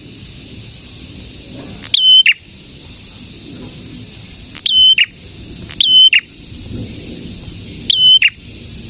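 A prenjak, a small songbird, calling repeatedly: four loud, identical short calls a second or two apart, each a quick flick up into a brief held high note that ends in a short downward stroke.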